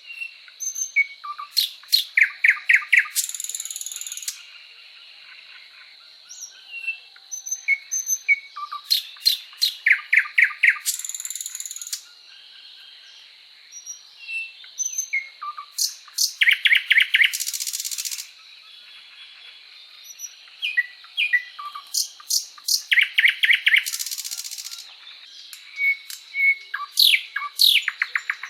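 A songbird singing in repeated phrases about every six to seven seconds. Each phrase is a few sharp chirps, then a fast run of notes and a short buzzy trill. A faint steady high-pitched whine runs underneath.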